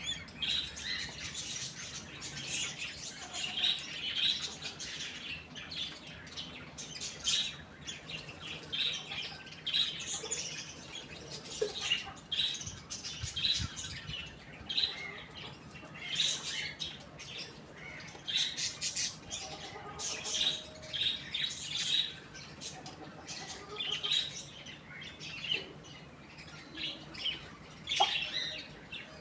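Birds chirping in quick, high, repeated calls, with the odd squawk and short clicks in between.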